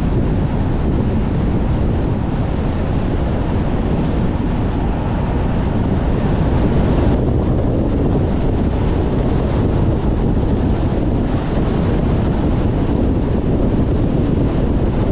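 Strong wind buffeting the microphone as a dense, steady, loud rumble, mixed with the noise of a car driving.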